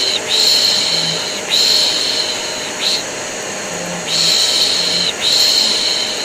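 Looped human shushing ('pish pish'): long hissing shushes of about a second each, with a short one after every third, repeating over the steady whir of a vacuum cleaner, played as white noise to soothe a colicky baby.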